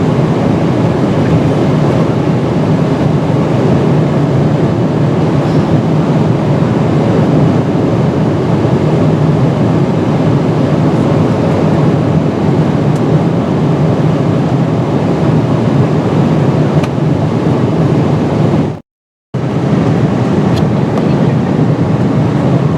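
Steady cabin noise of a Boeing 777-300ER at cruise: a constant rush of airflow over a low engine drone. It cuts out for about half a second near the end, then returns unchanged.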